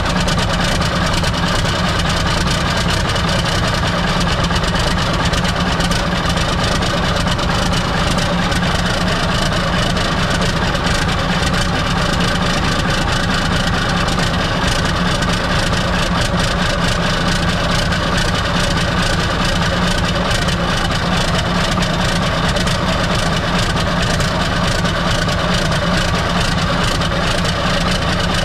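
Old Mack R model truck's diesel engine idling steadily, running on fuel fed straight into the injection pump from a squeeze bottle with the fuel filters bypassed: that it runs this way points to a filter problem rather than a failed injection pump.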